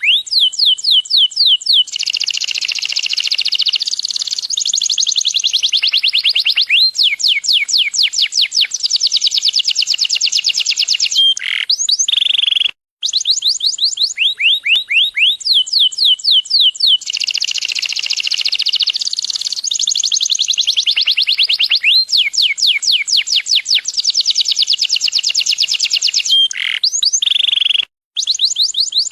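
Domestic canary singing a long, loud song of rapid rolling trills and fast runs of falling whistled notes. The same song sequence repeats about every fifteen seconds, broken each time by a split-second dropout.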